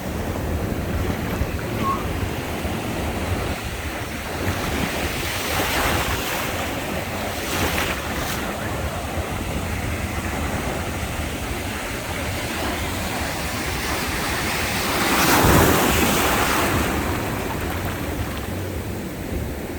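Sea waves breaking and washing on the shore in a continuous rush, swelling with each breaker; the loudest wave crashes about three quarters of the way through.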